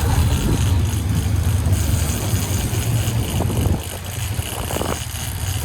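Yacht engines running with a steady low drone under a broad hiss, easing slightly in level a little over halfway through.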